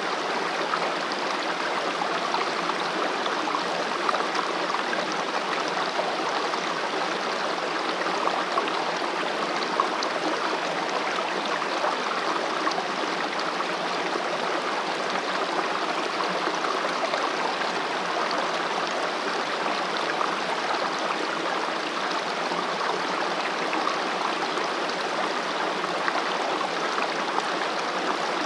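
Mountain stream running over rocks: a steady rush of water with small splashes and gurgles.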